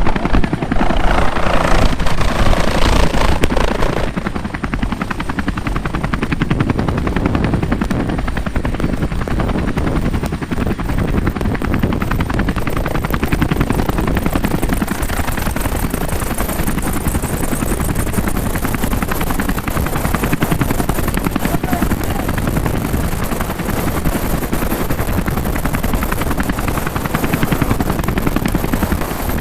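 Helicopter close by, its rotor blades chopping fast and steadily over the running engine. It is louder for the first few seconds, then holds steady.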